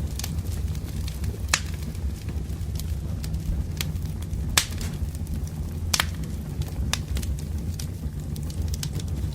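Wood fire burning: a steady low rush of flames with irregular sharp crackles and pops of the burning firewood, a few of them louder than the rest.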